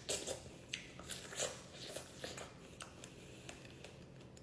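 Close-miked wet chewing and mouth clicks of someone eating strawberry with coconut jelly. There are several sharp smacks in the first two and a half seconds, then fainter, sparser clicks.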